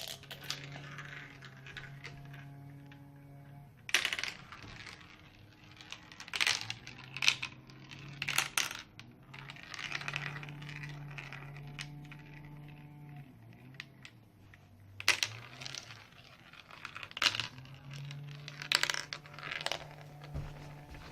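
Marbles dropping and clattering through a homemade marble run, in scattered bursts of sharp clicks and rattles, under held low musical notes.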